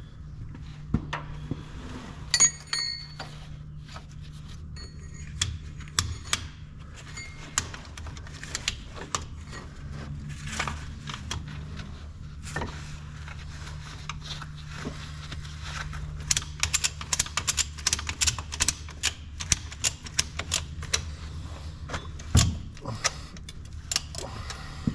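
Rapid metallic clicking of a ratchet being worked to draw the shortened paver track back together, with scattered metal clanks and a ringing metal strike about two and a half seconds in, over a steady low hum.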